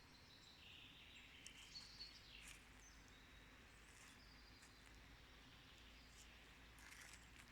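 Faint birdsong: small birds giving short whistled chirps and trills, most of them in the first few seconds, over a low steady background hiss.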